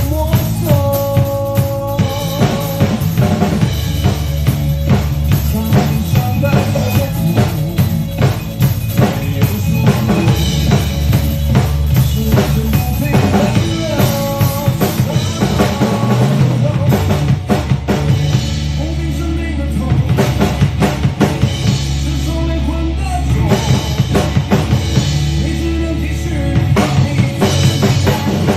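Drum kit played at a steady groove over pitched backing music with a bass line.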